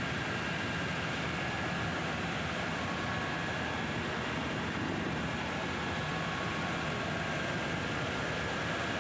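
Helicopter engine and rotor noise heard inside the cabin in flight: a steady, unbroken drone and hiss with a thin high whine held throughout.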